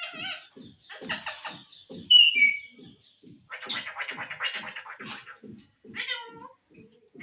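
Pet green parrot calling: a run of short harsh squawks and rasping calls, with a short, loud falling whistle about two seconds in.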